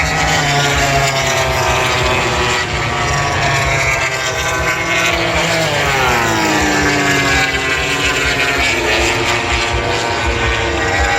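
MotoGP racing motorcycles at full throttle on the main straight near top speed. About six seconds in, one bike passes close by and its engine note drops sharply in pitch.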